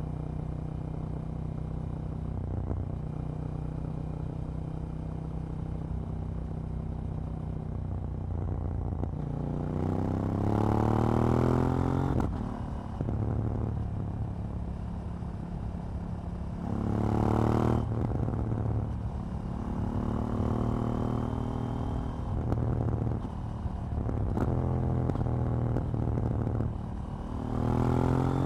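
KTM 790 Duke's parallel-twin engine while riding: a steady cruising note for about nine seconds, then it revs up hard twice, each time rising steeply in pitch and cutting off sharply, with the throttle varying between and after.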